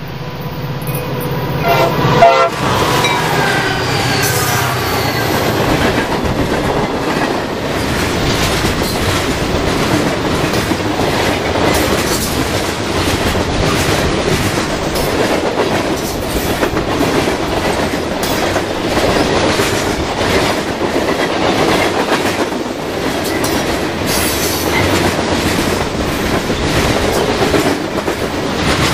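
CSX freight train passing close by at speed. The locomotive's horn sounds about two seconds in and drops in pitch as the engines go past. Then a long string of freight cars clatters steadily over the track.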